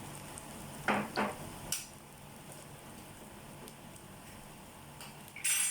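Noodles and sausage frying in a pan with a steady low sizzle, on a low flame. About a second in come two sharp knocks as eggs are cracked in, and near the end a short harsh scrape.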